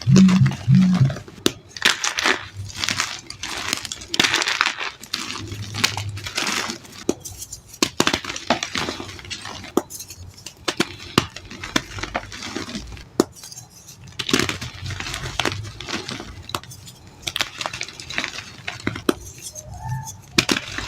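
Reformed white gym chalk being crushed and crumbled by hand: gritty crunching in uneven bursts, full of sharp crackles and ticks, with short lulls between squeezes.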